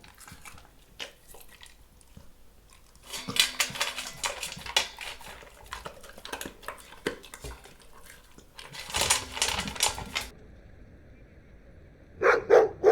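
A dog eating from a bowl, with two stretches of quick clicking and clinking, then three quick barks near the end.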